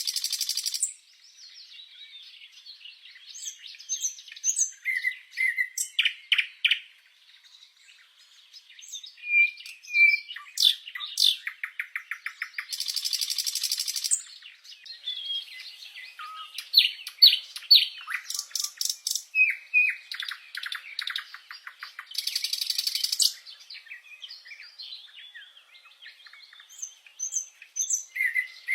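Several songbirds chirping and singing, overlapping one another: quick repeated notes, rapid trills, and three harsh buzzy calls of about a second each, at the start, about 13 seconds in and about 22 seconds in.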